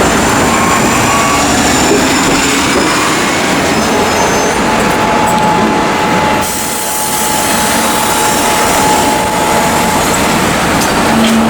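Loud city street traffic with heavy vehicles running, a steady whine holding for several seconds in the middle.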